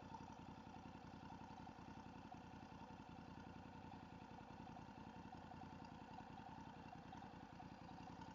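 Motorcycle engine idling, faint and steady, with an even firing rhythm.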